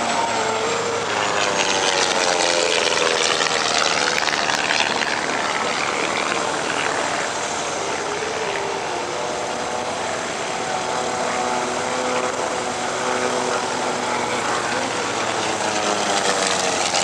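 Twin Wright R-1820 radial piston engines of an HU-16 Albatross running with their propellers turning. The engine note sweeps down in the first couple of seconds and climbs again near the end.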